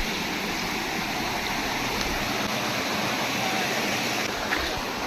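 Small jungle waterfall: water rushing in a steady, even flow.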